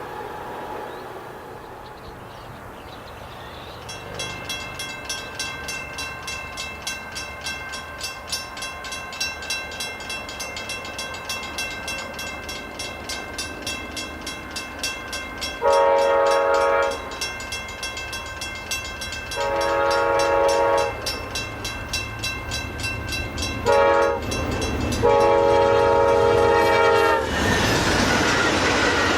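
Railroad grade crossing bell starts ringing in a steady rhythm about four seconds in. Then a locomotive air horn blows the grade crossing signal: long, long, short, long. Right after the last blast, loud noise from the passing train takes over.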